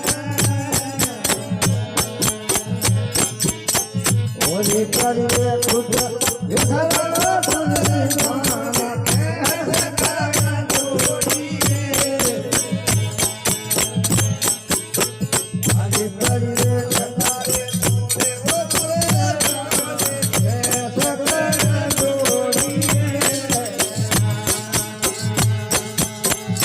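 Rajasthani folk devotional bhajan music: a fast, steady jingling percussion rhythm over a pulsing low beat, with a bending melody line coming in about four seconds in.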